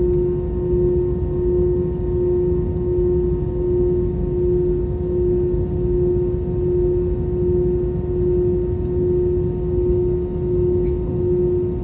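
Airbus A321-211's two CFM56 turbofan engines idling, heard inside the cabin: a steady drone with one strong constant hum over a low rumble.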